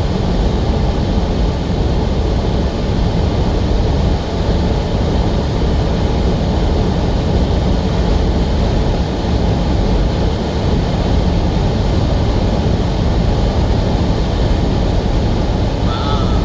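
Steady low rumble of a semi-truck driving, engine and road noise heard from inside the cab.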